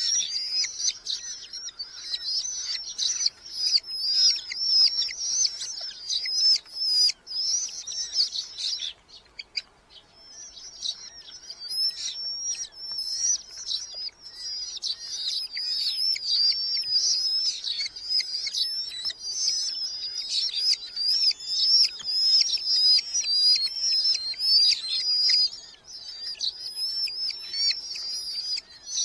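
Red-footed falcons calling: a dense, continuous run of shrill, wavering high-pitched calls, breaking off for about two seconds near the middle before starting up again.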